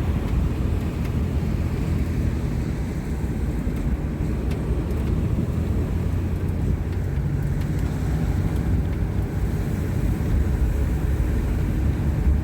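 Car road noise heard from inside the cabin while driving: a steady low rumble of tyres and engine.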